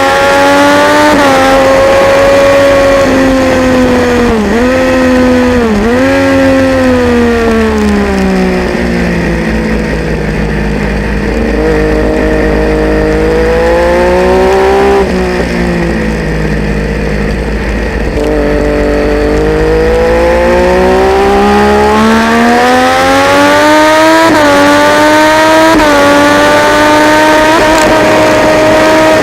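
Triumph Daytona 675's inline-three engine at racing speed: revs drop with quick dips as the bike slows for a corner, run low for several seconds, then climb hard with quick upshifts near the end.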